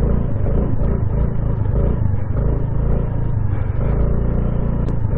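A 2022 Honda Navi's 109cc single-cylinder engine running steadily while riding, under a rush of wind and road noise.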